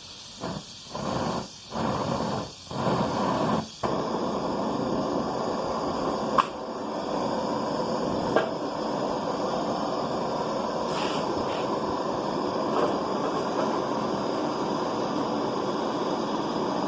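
Handheld butane gas torch flame hissing: a few short bursts in the first seconds, then a steady flame from about four seconds in, with two sharp clicks partway through.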